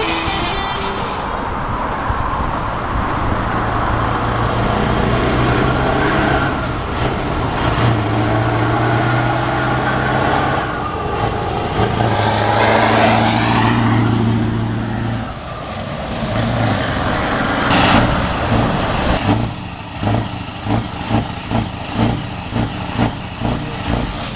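Scania R560 truck's V8 diesel engine running, its note rising and falling. About three-quarters of the way in there is a short hiss of air, like an air brake, followed near the end by a quick run of even, pulsing engine blips.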